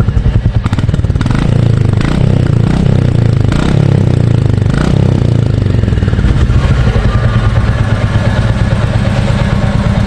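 Royal Enfield Bullet 350's 349 cc single-cylinder engine running through its stock exhaust. It gives several short sharp bursts in the first few seconds, then settles into a steady low pulsing.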